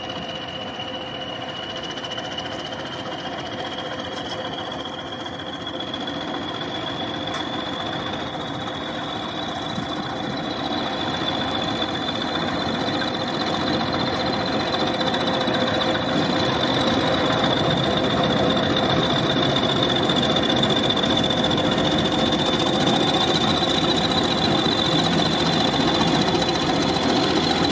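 Diesel locomotive engine running and growing steadily louder, with a high whine that rises slightly in pitch.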